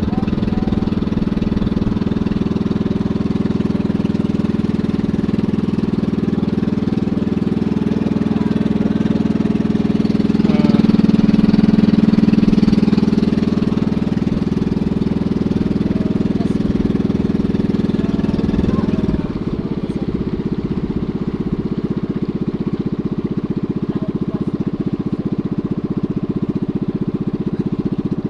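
A small engine running steadily. It swells louder for a few seconds partway through, then drops to a slightly lower, different note.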